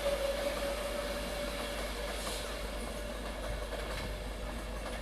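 Class 390 Pendolino electric train pulling out of the station, with a steady single-pitched whine over rail noise. The whole sound slowly fades as the train moves away.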